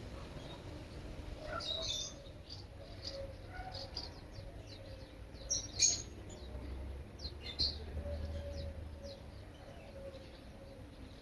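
Small birds chirping: many short, high chirps in quick, irregular runs, over a low steady rumble.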